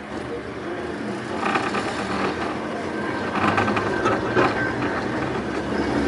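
Volks Electric Railway car running on its narrow-gauge track, its wheels and running gear rattling in bursts, with a thin steady whine coming in about halfway and the sound slowly growing louder.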